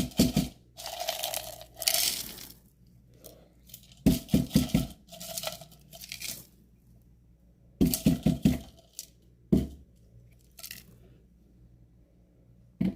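Nugget ice being shaken and tipped out of a container into a freezer tray in several separate bursts: quick runs of knocks, with rattling, sliding rushes between them. Some of the ice is stuck to the container.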